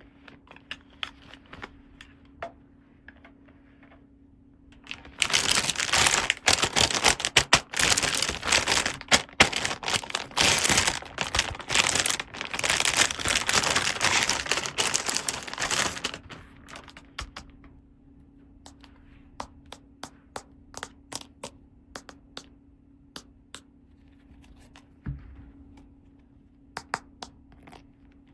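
Toy packaging crinkling and tearing in a dense stretch of about ten seconds, then scattered light clicks and taps as small plastic toy pieces are handled and set down. A faint steady hum runs underneath.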